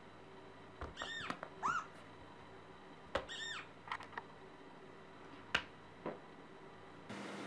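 A kitten mewing: short, high-pitched mews that rise and fall in pitch, two close together about a second in and another about three seconds in, with a few sharp clicks or taps.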